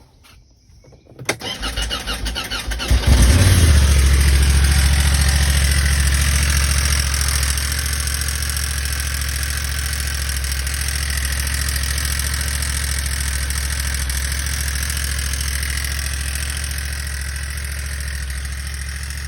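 Honda Talon side-by-side's engine cranked by its electric starter for about two seconds, catching about three seconds in, then idling steadily and slowly settling.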